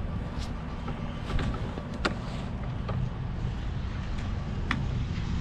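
Steady low vehicle rumble with a few sharp clicks or ticks scattered through it.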